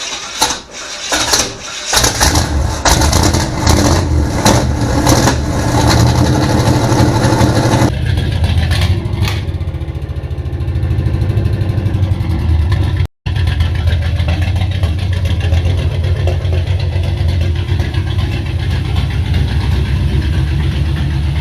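1970 Chevy C10's engine starting through new headers, a full 3-inch exhaust and Black Widow mufflers with side exits: cranking with sharp clatter, catching about two seconds in, revving hard, then settling to a steady, loud idle about eight seconds in.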